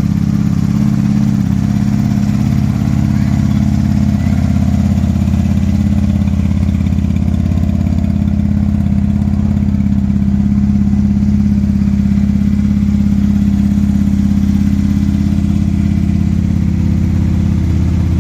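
Custom chopper motorcycle engine idling steadily with a low, even beat.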